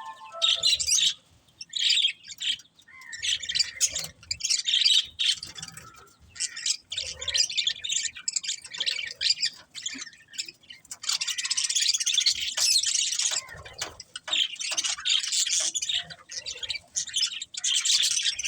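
Budgerigars chirping in quick, high-pitched bursts with short pauses, busiest in an unbroken stretch about two-thirds of the way through.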